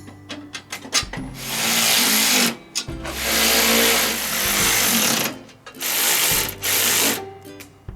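Four bursts of hissing, each lasting up to about a second and a half, over quiet background music.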